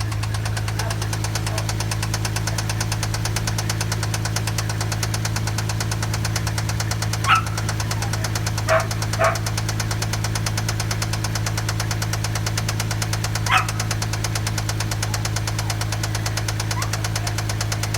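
Toyota 1JZ-GE inline-six running steadily with a rapid, even knock, the sign of a spun bearing shell. Four short sharp sounds stand out above it, between about seven and fourteen seconds in.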